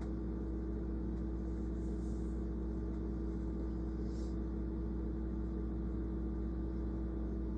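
Steady low machine hum made of several constant tones, even in level throughout, with two faint soft hisses about two and four seconds in.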